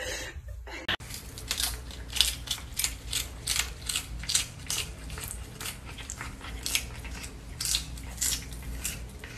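A cat chewing a crisp lettuce leaf held in a hand: a run of crunching bites, about three a second, starting about a second in.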